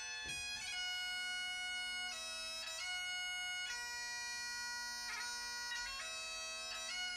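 Bagpipe music: a steady drone held under a chanter melody that steps from note to note.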